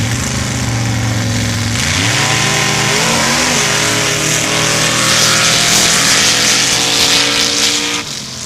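Sand drag racing truck engines idling at the line, then launching at full throttle: the engine note climbs steeply about two seconds in and holds high and loud until it cuts off near the end.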